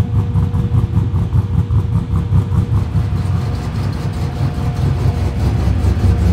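Turbocharged LS V8, an LQ9 cast-iron block with a 403 stroker kit and a 232/234 camshaft, running at idle and low speed through its 4-inch exhaust with an uneven, choppy beat.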